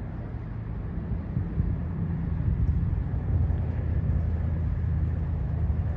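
Strong wind buffeting the microphone: a low, uneven rumble that grows louder over the first couple of seconds.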